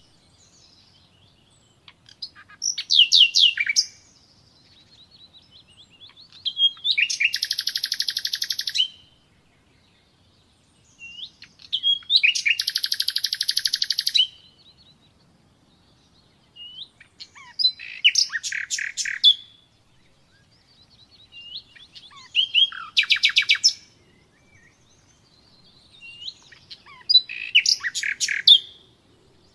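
Common nightingale singing: six separate phrases with short pauses between them. Some phrases are fast runs of rapidly repeated notes, others are quick sweeping whistles and clicks.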